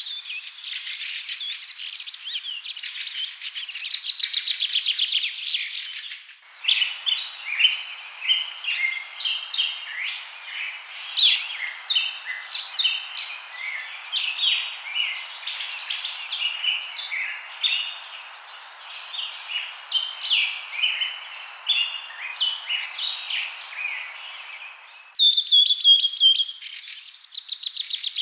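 Small birds chirping and singing in quick, high notes: a dense trilling stretch, then, after an abrupt cut about six seconds in, many scattered short chirps over a steady hiss, then another cut near the end to a clearer repeated trill.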